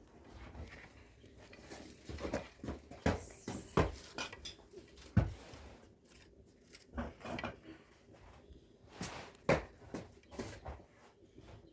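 Irregular clinks and knocks of dishes and utensils being handled, the loudest strikes a few seconds in.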